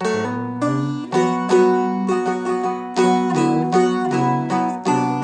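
Seagull Merlin M4, a four-string fretted dulcimer, picked slowly: a melody line in B minor over strings left ringing as a steady drone. A few notes glide in pitch as the fretting finger slides.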